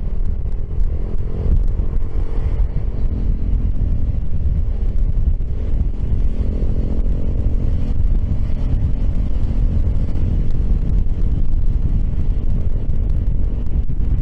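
Piaggio X10 maxi-scooter engine running under way, its pitch rising and falling gently with the throttle, over low wind rumble on the microphone.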